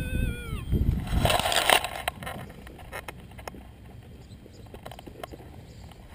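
Minelab E-Trac metal detector giving a warbling target tone that cuts off about half a second in. Then comes a loud burst of rustling and scraping as the detector and soil are handled, followed by scattered small clicks.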